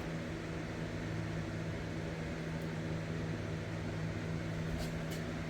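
Steady machine hum, like a running fan or similar motor, with a few held low tones under a soft hiss. Two faint clicks near the end.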